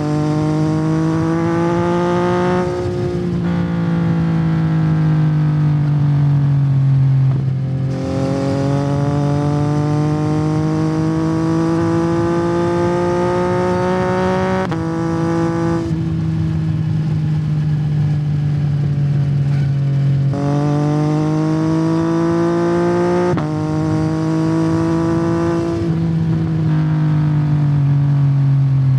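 2021 Yamaha MT-09's 890 cc inline three-cylinder engine through a Yoshimura R77 exhaust, accelerating under way: the engine note climbs and then drops at each upshift, several times over.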